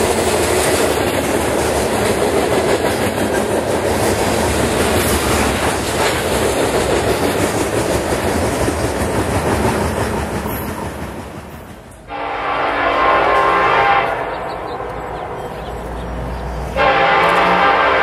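Freight cars rolling past with a steady rumble and wheel clatter that fades away about ten seconds in as the train clears. Then an approaching diesel locomotive's air horn sounds for the grade crossing: a long blast about twelve seconds in, dropping lower for a few seconds, then loud again near the end.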